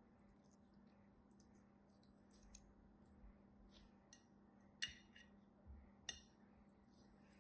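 Faint close-up handling sounds from slime making: a string of soft, quick clicks and crinkles, with two sharper clicks about five and six seconds in.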